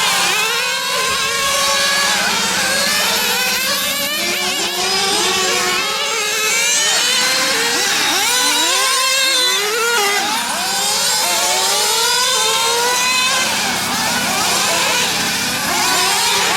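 Small nitro engines of 1/8-scale on-road RC cars revving up and falling back again and again as they lap a track, several engines overlapping with high-pitched, rising and falling tones.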